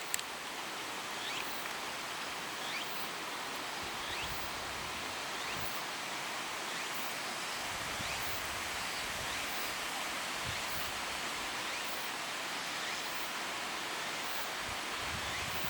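Steady outdoor ambience: an even hiss like running water or a chorus of insects, with a faint short falling chirp repeating about every second and a half.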